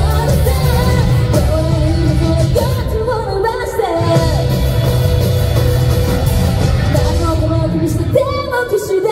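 Live J-rock band playing loudly, with drums, bass and guitars under a lead melody. The bass and drums drop out briefly about four seconds in and again near the end.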